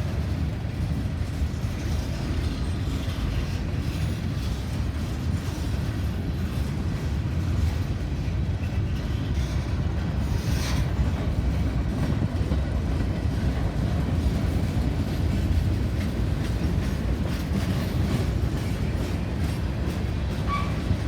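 Railroad cars of a passing train rolling by: a steady low rumble of steel wheels on the rails.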